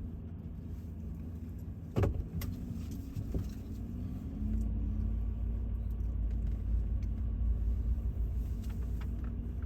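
Vehicle engine and road noise, heard from inside the moving vehicle: a steady low rumble with a sharp knock about two seconds in, then a rising engine note and a louder rumble from about four seconds in.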